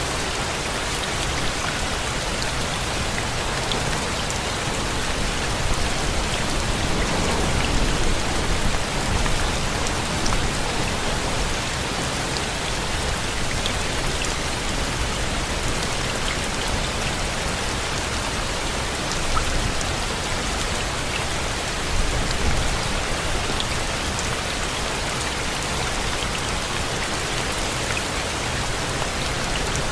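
Steady rain falling, an even hiss with a few brief swells in loudness.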